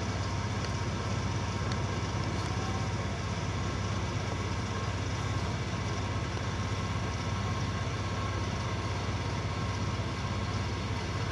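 A motor running steadily at constant speed: an even engine drone with a strong low hum that does not change.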